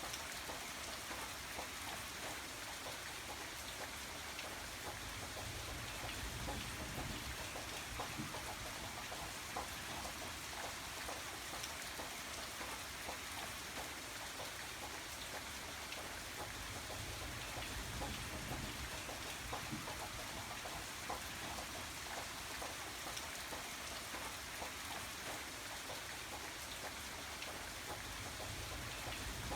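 Steady rain falling, a constant hiss with a dense patter of individual drops landing on a surface.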